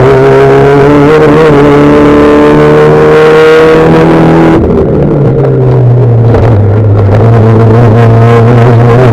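V1600-class Fiat Bravo rallycross car's engine running hard under load, its note climbing for about four and a half seconds, then dropping suddenly and holding a lower, steadier pitch.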